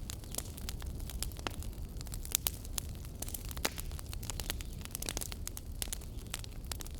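Wood fire crackling: many irregular sharp pops and snaps over a steady low rumble of burning, with a couple of louder pops in the middle.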